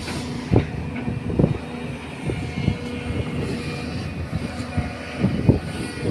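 A truck engine running steadily, with several short knocks heard over it.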